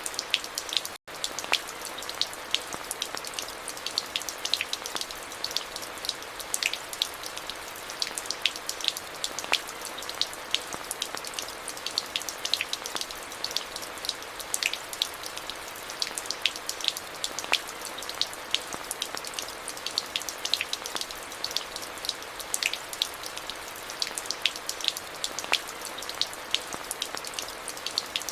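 Steady rain: a constant hiss with many sharp individual drops ticking close by. The sound drops out for an instant about a second in.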